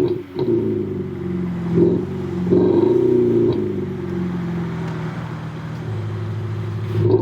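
Kia K5 (DL3) engine and exhaust fitted with a JSR sound booster, revved in short blips that rise and fall in pitch, then settling to a steady lower note near the end.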